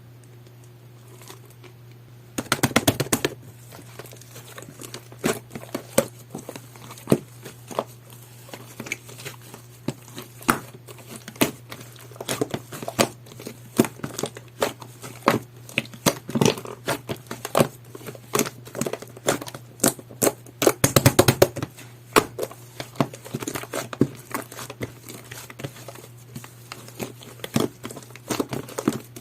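Hands squishing, stretching and poking jelly-textured sky-blue slime, making a continual series of sharp wet clicks and pops, with two dense runs of crackling about two and a half seconds in and again about two-thirds of the way through. A steady low hum runs underneath.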